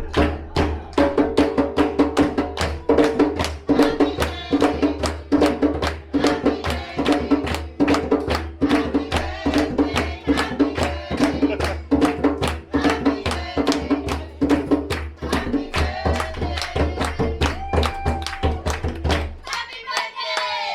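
A group singing a birthday song to a steady hand-drum beat of about three strokes a second. The drumming stops shortly before the end.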